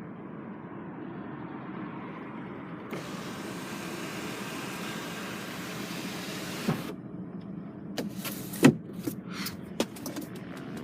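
Steady hum and hiss inside the cab of a Nissan Navara 2.5 dCi with its turbo-diesel engine running. About seven seconds in it gives way to a string of sharp clicks and knocks.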